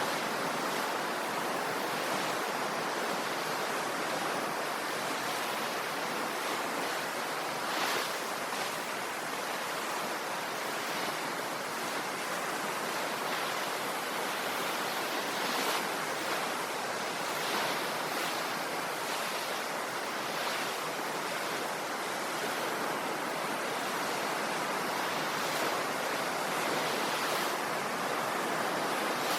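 Ocean waves: a steady rush of surf, with a slightly louder wash about eight seconds in and again about halfway through.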